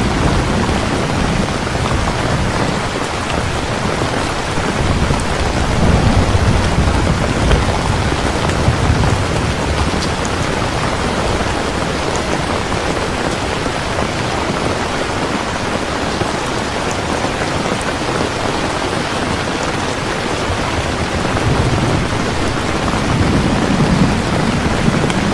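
Heavy rain falling steadily, with low rolls of thunder rumbling twice, once about a quarter of the way in and again near the end.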